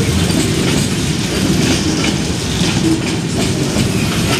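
Container freight train's wagons rolling past close by: a steady, heavy rumble with wheels clicking over the rail joints.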